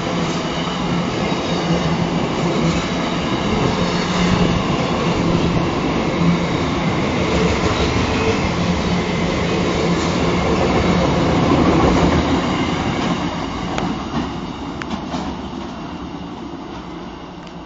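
Diesel freight train moving past: steady diesel engine drone over wheels rolling on the rails with some clatter, growing louder to a peak about twelve seconds in and then fading away as the train moves off.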